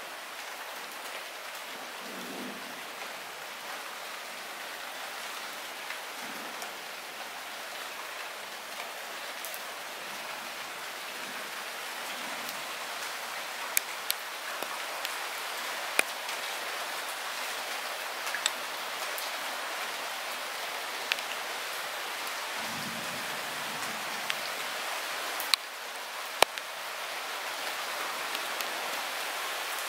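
Light rain falling steadily as an even hiss, with scattered sharp ticks of single drops striking close by. It grows slowly a little louder through the stretch.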